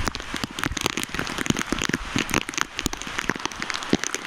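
Rain falling, with many close, irregular raindrop taps striking near the microphone over a steady hiss of rain.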